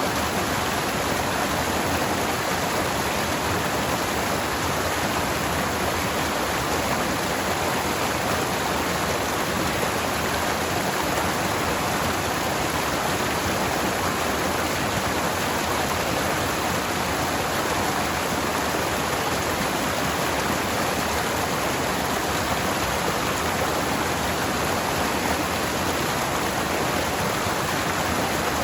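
Forest stream flowing and rushing over rocks, a steady, even water noise.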